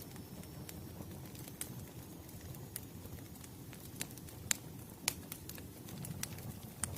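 Burning wood fire crackling: irregular sharp pops and snaps, a few louder than the rest, over a low steady noise.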